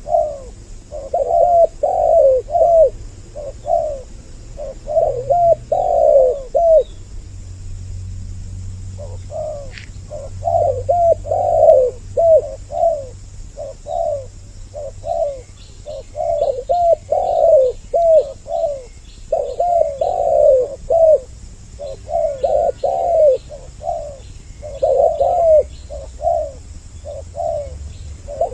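Spotted doves cooing in repeated phrases of low coos, with a pause about seven seconds in before they resume. Faint, quick high chirps of a small bird sound behind them in the second half.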